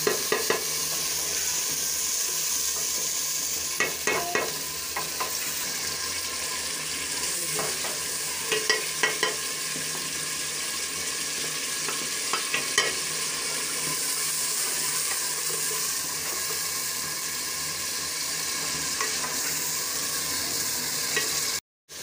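Masala of ginger-garlic, potatoes, tomatoes and green chillies frying in plenty of hot oil in an aluminium pot, a steady sizzle while a wooden spoon stirs it: the bhuna stage of frying the masala. A few sharp knocks of the spoon against the pot come through.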